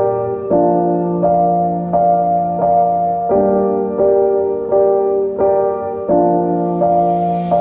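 Piano music: sustained chords struck at a steady, unhurried pace, about three every two seconds.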